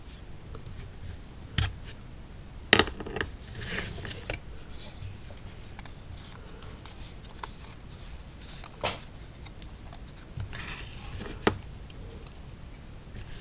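Hobby knife cutting through the small tabs that hold laser-cut wood parts to their carrier sheet: several separate sharp clicks and two short scraping strokes of the blade.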